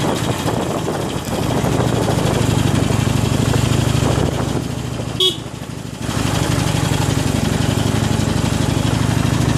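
Harley-Davidson Iron 883's air-cooled V-twin engine running steadily on a trail ride. About halfway through, a short horn toot sounds and the engine note drops off for about a second before picking up again.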